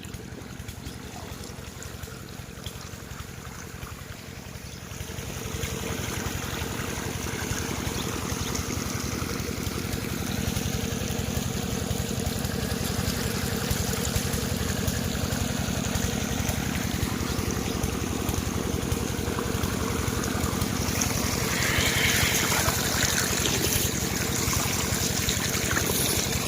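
8 hp diesel water-pump engine running steadily, with a rush of water that swells in about five seconds in and runs on, the pump delivering water.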